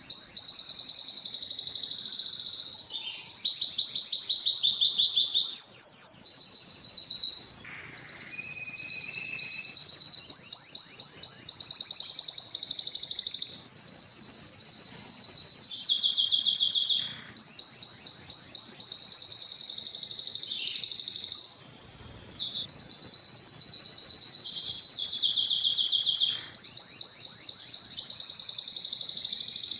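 Domestic canary singing a long, continuous song of fast trills: phrases of rapidly repeated high notes that change from one phrase to the next, with a few brief breaks between phrases.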